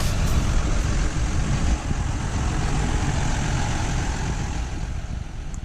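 Heavy farm machinery engine running steadily during the corn harvest, fading out near the end.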